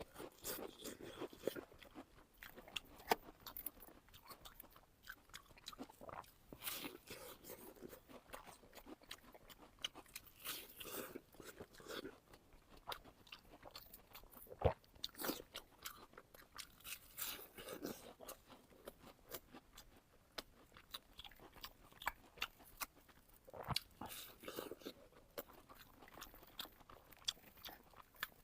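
A person chewing and biting food close to the microphone, with irregular crunches and wet mouth clicks, a few sharper crunches standing out.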